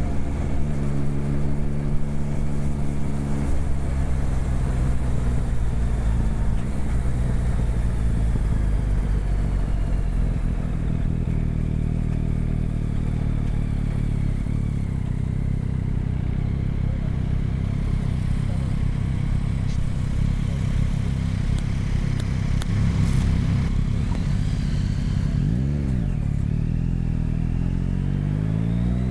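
Motorcycle engine running under way on a ride, holding a fairly steady pitch with small shifts. About 26 seconds in there is a quick rise and fall in revs, and near the end it rises steadily as the bike accelerates.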